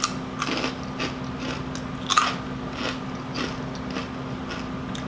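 Biting into and chewing crunchy rolled tortilla chips (Doritos Dinamita Chili Lime), a string of sharp crunches with the loudest about two seconds in.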